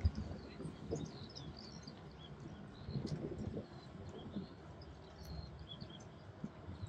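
Small birds chirping and calling outdoors, many short high notes scattered throughout, over a soft low rustle with a thump right at the start and a few weaker ones.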